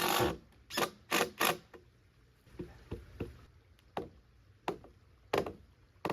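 Hammer striking nails into wood: a series of about ten sharp, irregularly spaced blows.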